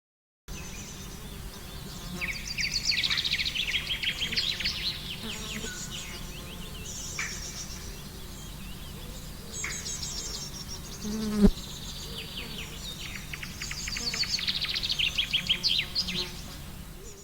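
Outdoor ambience of small birds singing in quick, repeated chirps and trills over a faint low rumble, with a single sharp thump about eleven and a half seconds in.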